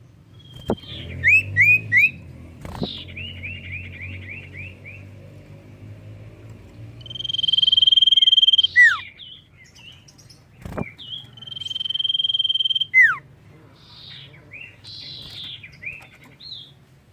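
Common iora (cipoh) singing. It opens with quick runs of short curved chirps, then gives two long, steady high whistles, each ending in a sharp downward slur, with scattered chirps between and after. A few sharp clicks break in.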